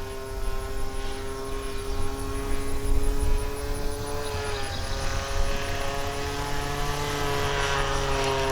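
Engine and propeller of a 1:6.5 scale Phoenix Cessna 182 RC model plane droning steadily in flight, the pitch dipping slightly about halfway through. A low rumble of wind on the microphone lies under it.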